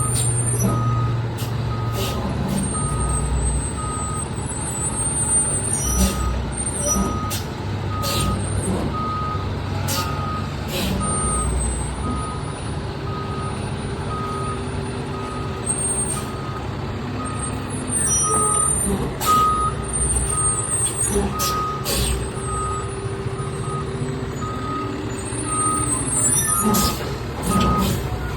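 Fire truck reversing, its backup alarm beeping in a steady run over the diesel engine's low rumble, with a few short high squeals and hisses from the brakes.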